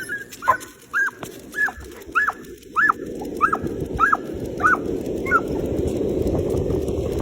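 A dog giving a quick series of high-pitched excited yips, about two a second, that fade out after about five seconds, as a rushing noise builds up behind them.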